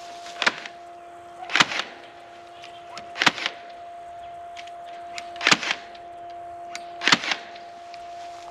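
Cordless battery-powered staple gun firing staples, five sharp shots about one to two seconds apart, most with a quick second knock. A steady hum runs underneath.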